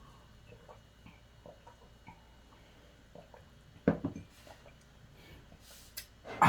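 Faint scattered small clicks and taps of kitchen handling, then a sharp knock about four seconds in, followed by a couple of smaller knocks.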